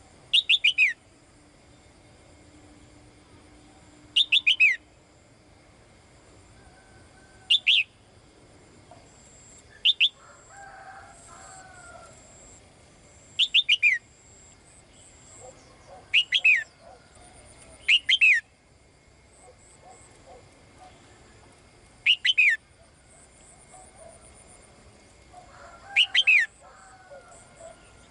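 Female caged songbird calling to a male: short, loud calls of three or four quick notes, each sliding down in pitch, repeated every two to four seconds.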